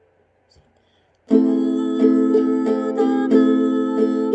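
Ukulele chords strummed in a steady rhythm, about three strokes a second, starting suddenly a little over a second in after near silence.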